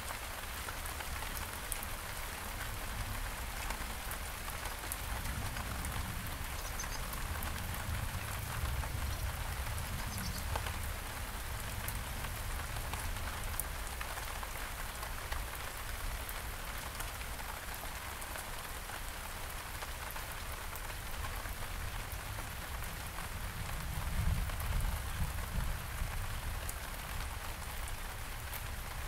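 Steady rain falling on several kinds of garden surfaces, with a dense patter of individual drops. A low rumble swells briefly about three-quarters of the way through.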